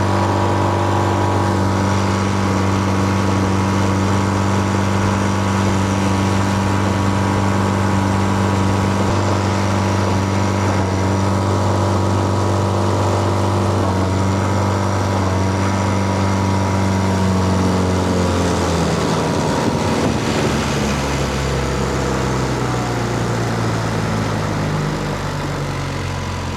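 Boat motor running on a newly fitted electric fuel pump, held at high RPM with a steady pitch, then throttled back about 18 seconds in, its pitch falling to a lower, steady run. The owner senses a possible miss at speed: "like the motor's missing or something."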